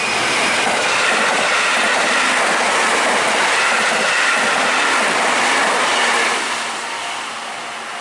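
Electric train passing close at speed over a level crossing: a steady rush of wheel and rail noise with a faint whine that fades about six and a half seconds in.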